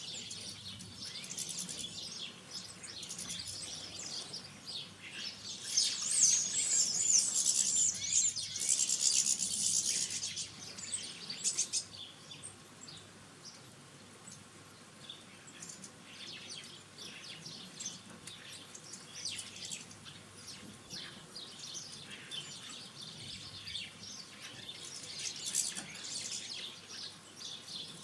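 Small garden birds chirping and twittering around a feeder, with a louder spell of rapid twittering about six to ten seconds in.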